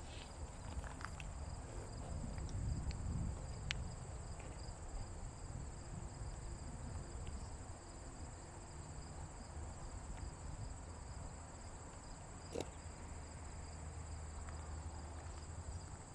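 Insects trilling steadily in a constant high-pitched chorus, with a low rumble underneath and a few faint clicks.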